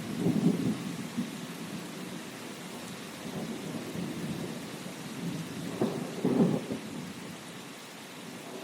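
Steady rain with rolling thunder: two stronger low rumbles, one about half a second in and another around six seconds in, easing off near the end.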